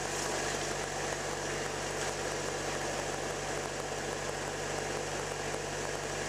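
Toyota 2L four-cylinder diesel engine running steadily at a slightly raised idle, with no change in revs.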